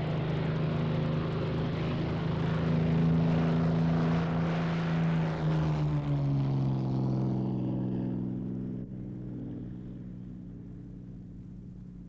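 Rolls-Royce Merlin V12 engine of a Supermarine Spitfire Mk VC running strongly. About halfway through its pitch drops a little, and the sound then fades steadily away.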